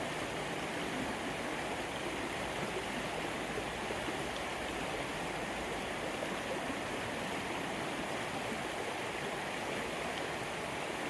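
Small wild stream running steadily, an even rush of flowing water.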